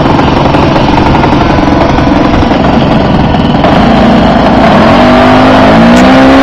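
Saito FA-125 four-stroke glow engine on an RC Edge 540 model plane running loud, its pitch climbing steadily from about five seconds in.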